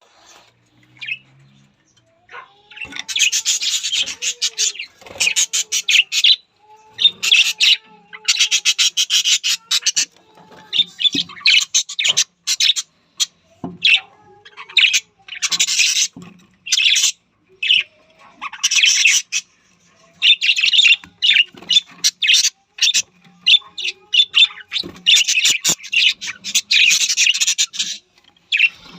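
Small parrots chattering in bouts of rapid, high-pitched chirps, each bout lasting a second or two, with short pauses between.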